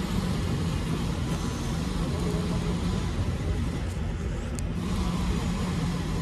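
Truck engine running with steady road noise, a continuous low drone while the truck is driving.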